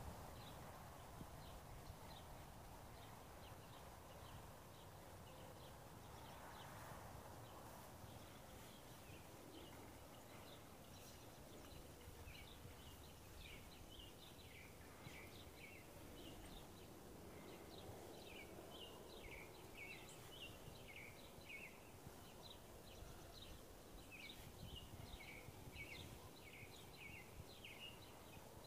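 Small songbirds singing faintly: runs of short, high, downward-sliding chirps repeated in quick series, sparse at first and thicker from about halfway through, over a low background hum.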